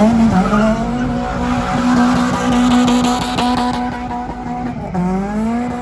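Car doing a burnout: the engine revs up and is held at high, steady revs while the tyres squeal. The revs drop briefly near the end and climb again.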